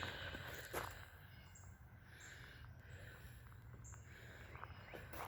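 Birds singing faintly in the background, short high chirps repeating every second or so. Two crunching footsteps on gravel in the first second.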